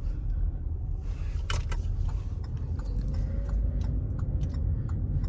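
Car pulling away, heard from inside the cabin as a steady low engine and road rumble. The hazard-light flasher ticks evenly from about two seconds in. A brief loud clatter comes about a second and a half in.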